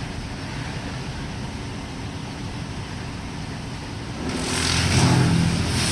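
WashWorld Razor automatic car wash machinery running with a steady hum and hiss, which swells about four seconds in into a louder rush over a steady low motor hum.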